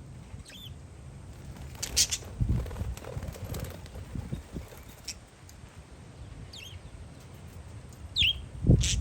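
Parakeets giving a few short chirps that sweep downward, the loudest near the end, over gusty wind rumbling on the microphone.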